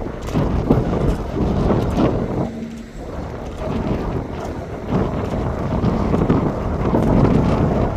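Low jet aircraft engine rumble with wind buffeting the microphone, dipping briefly about two and a half seconds in.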